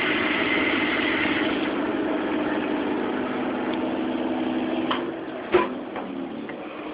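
Steady mechanical hum and rush of an air-conditioning blower together with bathroom exhaust fans; it drops in level about five seconds in. A sharp click follows shortly after.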